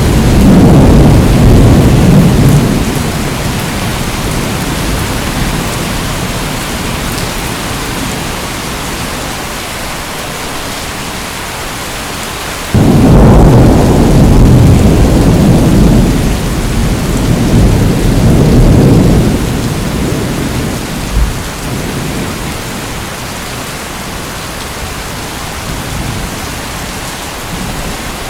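Heavy rain falling steadily, with thunder: a deep rumble dying away in the first few seconds, then a sudden clap about halfway through that opens into a long rolling rumble, swelling twice before it fades back under the rain.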